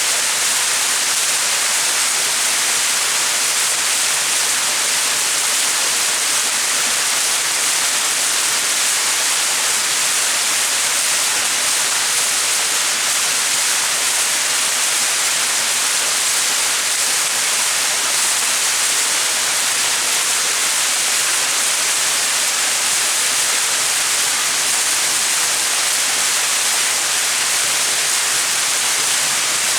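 Small mountain waterfall splashing: a steady, even hiss of falling water, strongest in the high frequencies.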